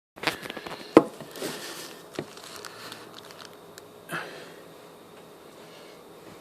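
A flurry of small clicks and knocks, with one sharp, loud knock about a second in and two smaller ones later, over a faint steady background.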